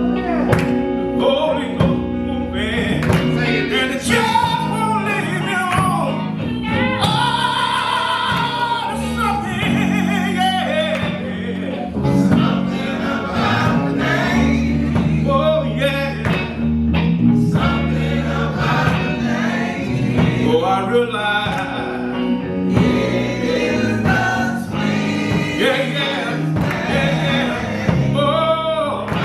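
Gospel music: voices singing over a band accompaniment with steady bass notes underneath.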